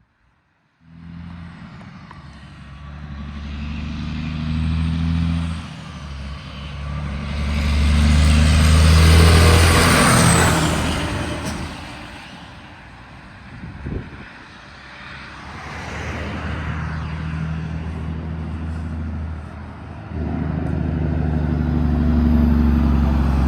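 Heavy trucks' diesel engines running and passing by, several in turn, starting abruptly under a second in; the loudest swells and fades about eight to eleven seconds in, with one sharp click a few seconds later.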